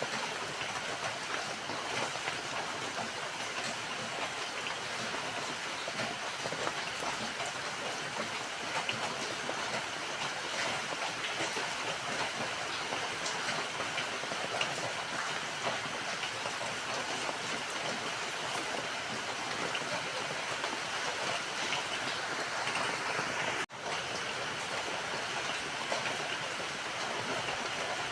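Steady rain falling, a dense even patter. The sound drops out for an instant about three-quarters of the way through.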